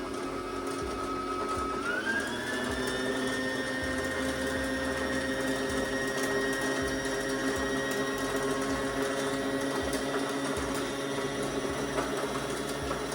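Brother sewing machine's motor whirring steadily as it winds thread onto a bobbin under the foot controller. About two seconds in it speeds up to a higher, steady whine.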